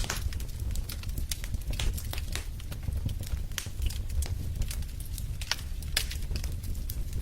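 Fire in a fireplace crackling: irregular sharp snaps and pops, several a second, over a steady low rumble.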